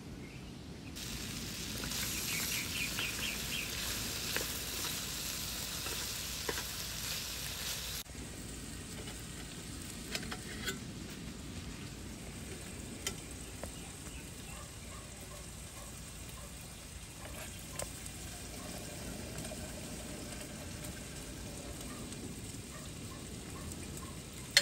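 Meat and onion pieces sizzling as they fry in a small pan on a camping gas stove, with metal tongs clicking against the pan now and then as they are stirred. The sizzle is loudest for the first several seconds and drops to a quieter steady hiss about eight seconds in.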